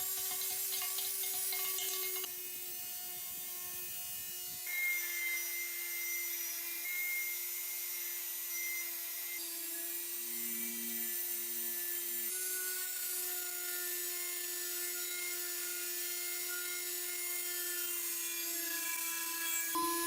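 A small electric power tool's motor running at steady speed, a constant whine whose pitch and tone shift a little at a few abrupt changes.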